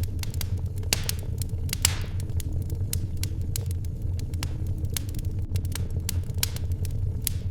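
Wood fire crackling and popping in a fireplace, with irregular sharp snaps over a steady low rumble.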